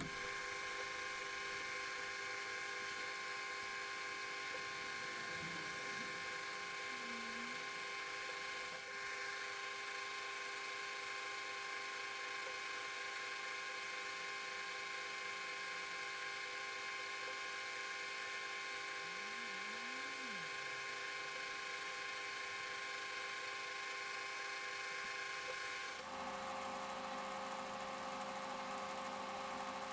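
Machine tool's electric motor running steadily with an even hum and whine of several fixed tones. About 26 seconds in the sound changes suddenly to a different set of tones.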